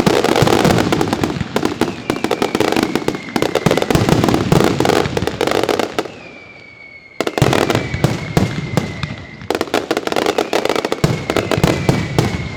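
Professional fireworks display: a dense barrage of rapid crackling bangs with a high whistling tone gliding slowly down in pitch over it. It dies away about six seconds in, then bursts back in suddenly about a second later.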